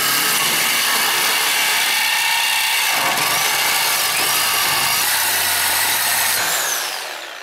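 Reciprocating saw with a long bi-metal multipurpose blade cutting through a steel exhaust pipe next to the muffler, running steadily and loudly, then winding down near the end as the cut is finished.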